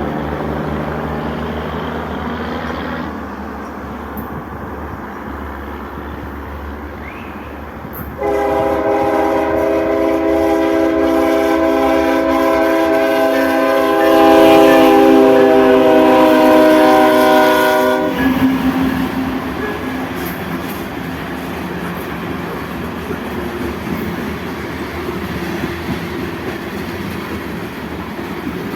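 Locomotive air horn sounding one long chord of several notes for about ten seconds, starting about eight seconds in, over the steady running noise of the train. The rumble of the train continues after the horn stops.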